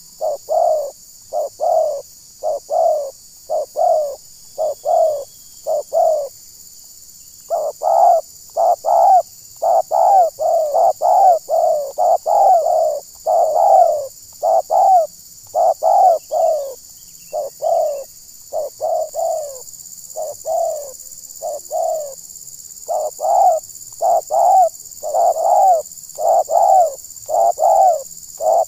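Spotted doves cooing: a long run of short, repeated coos, about one to two a second, with a brief break about a quarter of the way through.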